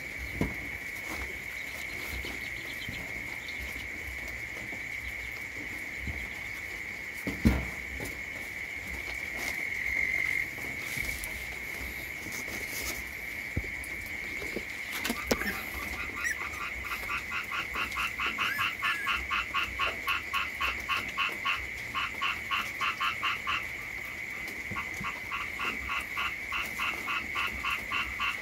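Frogs calling: a steady high-pitched chorus, joined about halfway through by a rapid pulsing croak of about five pulses a second that goes on in runs. A single sharp knock comes about a quarter of the way in.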